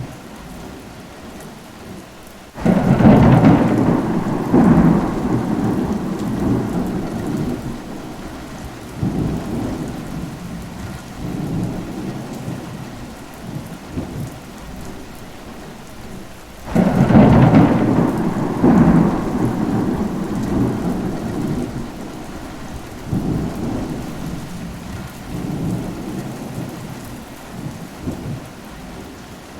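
Steady rain with two rolls of thunder. Each breaks suddenly, the first a few seconds in and the second just past halfway, and rumbles away in rolling waves over several seconds.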